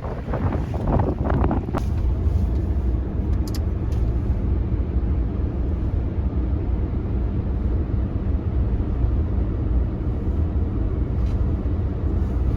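Steady low rumble of a vehicle driving, with wind on the microphone.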